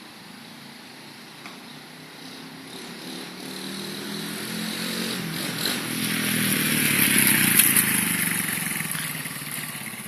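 Roketa 125cc pit bike's single-cylinder engine running under way, growing louder to a peak about seven or eight seconds in, then fading as the bike moves off. The carburettor has just been cleaned after the bike sat unused for a few years.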